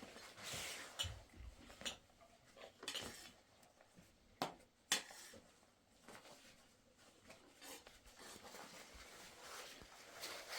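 Dishes, pots and utensils clinking and knocking as they are handled, with two sharper clinks about four and a half and five seconds in.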